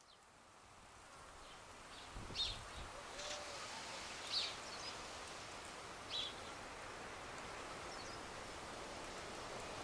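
Outdoor rural ambience fading in: a steady background hiss with a small bird chirping briefly several times, the loudest chirps about two and a half, four and a half and six seconds in.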